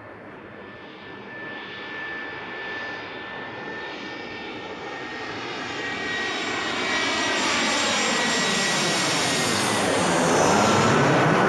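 Airliner on landing approach flying low directly overhead, its engine noise growing steadily louder to a peak near the end. A high whine in the engine sound drops in pitch as the plane passes over.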